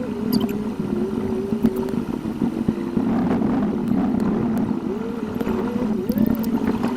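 Car engine and road noise picked up by a dashcam and played back sped up about eightfold, so the engine note swoops quickly up and down over a steady low hum.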